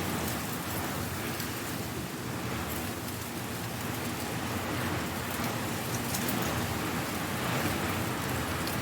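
Strong wind blowing dry leaves: a steady rushing noise with scattered light crackles of leaves.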